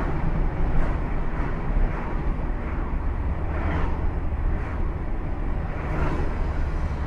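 A car driving: a steady low rumble of engine and road noise, with a few faint swishes over it.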